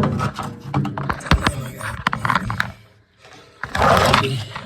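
Handling noise from a camera being moved and positioned: a run of clicks and knocks, then a short rough scrape near the end.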